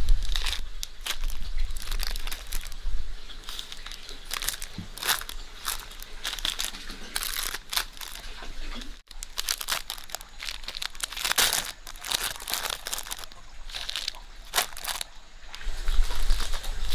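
Irregular crinkling and rustling, with a sudden brief break about halfway through.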